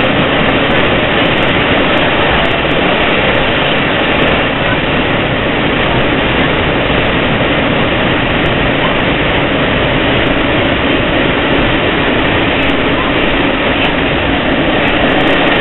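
Steady running noise of a Long Island Rail Road M1 electric multiple-unit train heard from inside the passenger car while it travels at speed: wheels on the rails and the car's motion.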